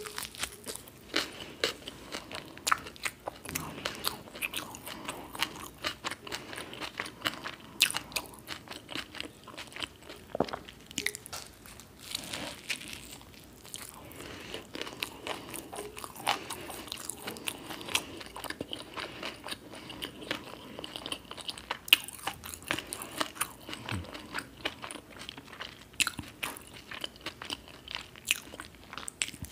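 Close-miked biting and chewing of a crisp grilled toasted bread sandwich, with many sharp, irregular crunches throughout.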